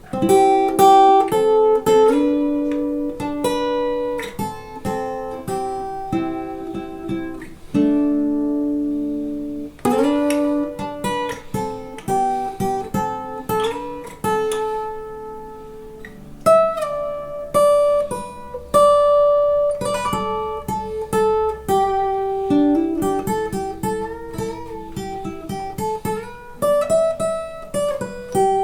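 Acoustic guitar playing an instrumental break: a run of plucked melody notes and strummed chords, with no singing.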